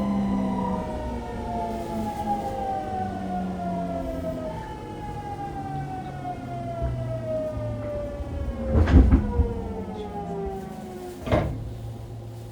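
Fukuoka City Subway 2000 series train's Hitachi GTO-VVVF inverter whining in several tones that fall steadily in pitch as the train brakes for a station. Two sharp knocks sound near the end, after which the whine stops and a low steady hum remains.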